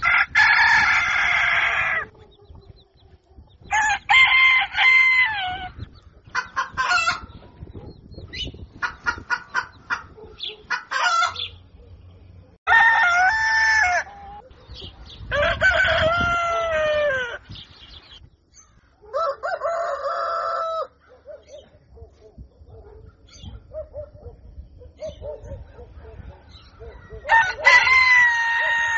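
Roosters crowing, about six long cock-a-doodle-doo calls spaced a few seconds apart. Between the crows come quick runs of short clucks.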